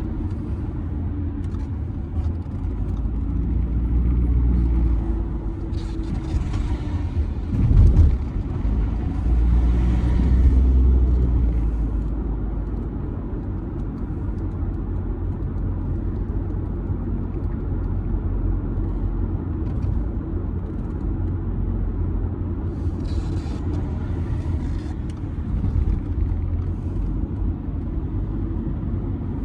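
Audi A6 C6 2.0 TDI four-cylinder diesel car on the move: a steady low rumble of engine and road noise that swells twice. There is a single sharp thump about eight seconds in.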